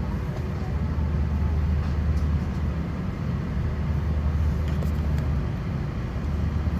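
Steady low rumble inside the passenger cabin of an Airbus A330-900neo waiting to take off, from the aircraft's running engines and cabin systems.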